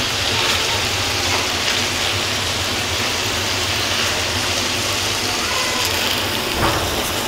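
Beef chapli kababs shallow-frying in hot oil in a pan, a steady sizzle of bubbling oil as the meat's own released water cooks off.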